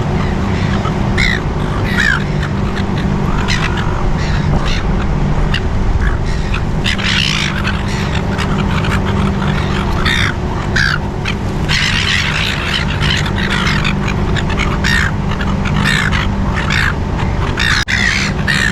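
Seagulls, silver gulls, calling: many short repeated squawks, several birds overlapping, over a steady low background rumble.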